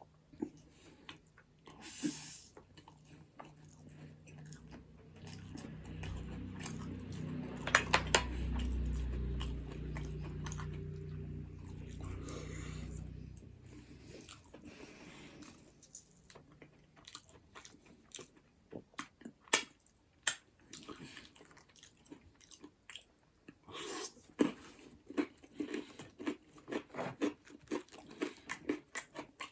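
Close-miked eating sounds: chewing and crunching on buff bone marrow and noodles, with scattered crackles and bites. In the middle comes a louder low sound lasting several seconds, with a couple of sharp clicks in it. Near the end there is a dense run of crunching.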